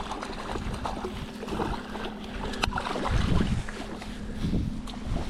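Wind on the microphone aboard a small fishing boat on open water, with a steady low hum running underneath and a few light knocks.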